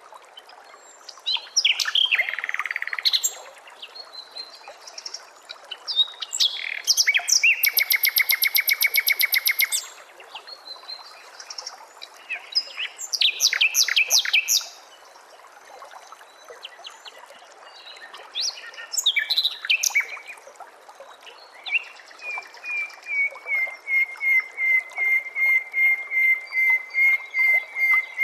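Recorded songbird song from a birdsong training track: varied phrases of whistles and chirps, and a fast rattling trill a few seconds long near the middle. In the last few seconds it settles into a steady series of short, identical notes, about two a second, over a faint hiss.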